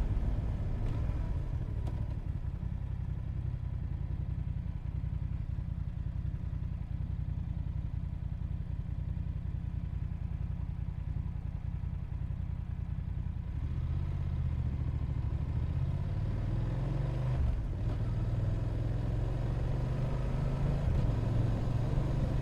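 Motorcycle engine running as the bike rides along, heard from on board with road and wind noise. The engine note gets louder about two-thirds of the way through and rises in pitch near the end.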